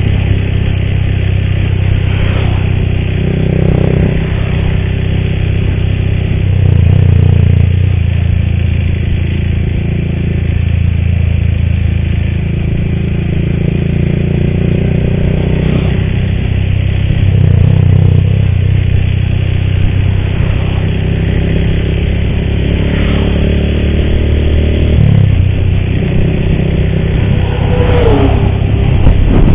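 Motorcycle engine running at road speed, its pitch rising and falling several times as the throttle changes. The rider complains that this bike's cam chain makes a horrible noise and needs replacing.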